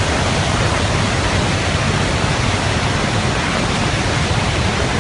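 Floodwater rushing steadily, a loud even noise with no breaks.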